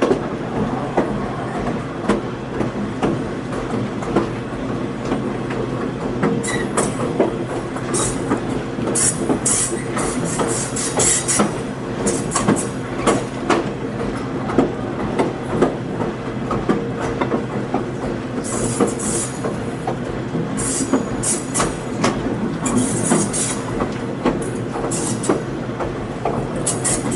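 Train rolling along steadily, its wheels clicking over rail joints, with bursts of high-pitched wheel squeal a few seconds in and again from about two-thirds of the way through.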